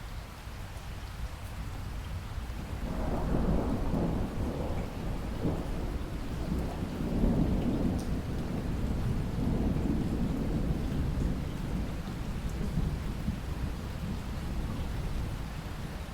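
Steady rain with a long rolling rumble of thunder. The thunder builds about three seconds in, is loudest around the middle, and dies away near the end.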